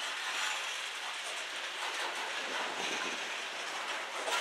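Freight train's covered hopper cars rolling past, their steel wheels running on the rails with a steady noise and clickety-clack.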